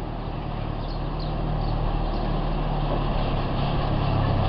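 1991 Mazda Miata's 1.6-litre four-cylinder engine running steadily, growing gradually louder.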